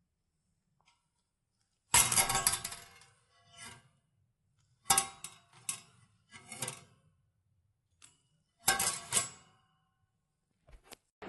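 Metallic clanks and clinks in about six short clusters with silence between them, as a metal object is handled and knocked about.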